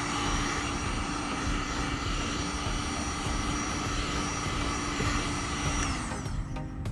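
Heat gun blowing steadily with a whining fan motor, switched off about six seconds in, its whine falling as the fan spins down.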